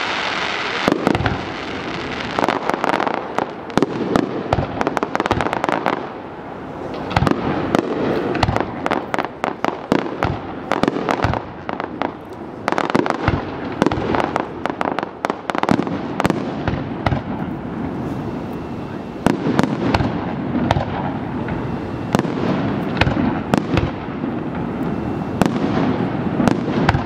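Aerial fireworks display: shells launching and bursting in many sharp bangs at quick, irregular intervals over a continuous noisy wash.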